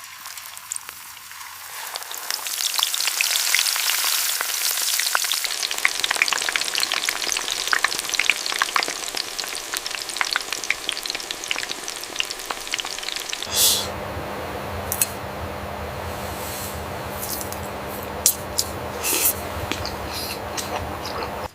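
Fish frying in a pan, a dense crackling sizzle that builds over the first couple of seconds. About two-thirds of the way through it changes to a lower, steadier sizzle with a faint hum, and a few sharp clicks or pops come near the end.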